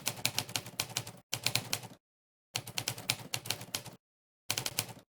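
Monkeytype's typewriter key sound effect, one sampled typewriter keystroke clack for each key pressed, in fast runs of several strokes a second. The runs stop dead into complete silence twice, for about half a second each, and briefly again near the end.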